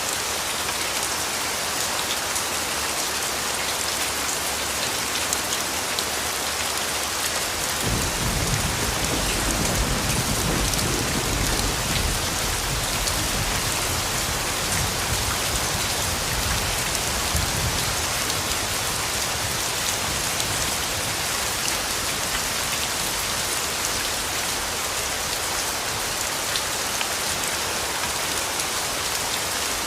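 Steady rain falling and pattering on surfaces, with a low rumble of distant thunder that comes in about eight seconds in and dies away over the next ten seconds or so.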